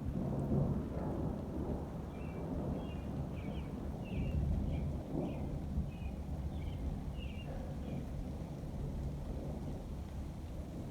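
Rolling thunder: a low rumble that swells about half a second in and again around four seconds in, over a steady wash of rain. A run of short high chirps sounds from about two to seven seconds in.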